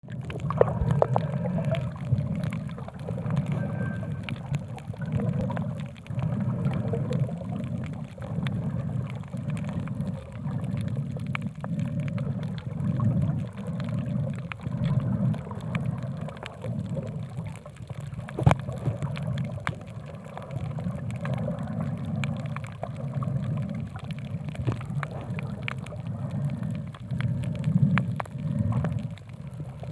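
Water sloshing and gurgling, heard through an underwater camera. The low rumble swells and fades about once a second, and scattered sharp clicks sound through it; the loudest click comes past the middle.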